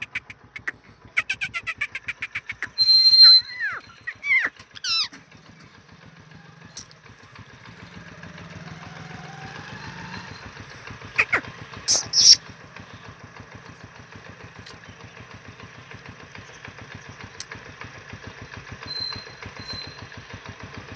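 Parrot calls: a quick string of sharp notes and gliding whistles in the first few seconds, then two loud high screeches about twelve seconds in. An engine runs steadily underneath throughout.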